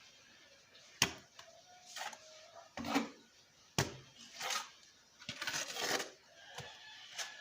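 A plastering trowel scraping up cement and tile-adhesive mortar and throwing it onto a brick wall. There are sharp clicks of the trowel about a second in and again near four seconds, with scraping strokes in between.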